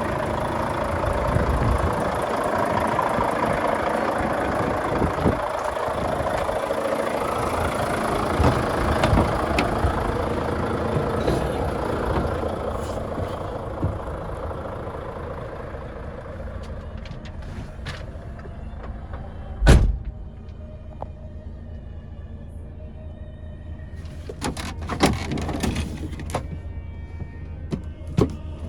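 Volvo FH500 truck's 13-litre straight-six diesel running, loud with a rushing noise at first and then settling lower. A single heavy thud comes about two-thirds in, and a run of sharp clicks and knocks follows near the end.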